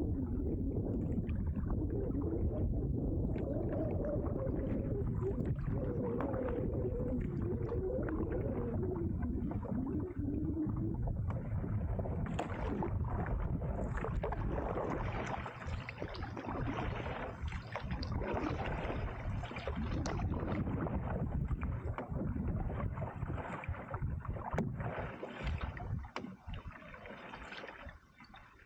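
Canoe being paddled: water splashing and gurgling against the paddle and hull, with a wavering hum for the first ten seconds or so.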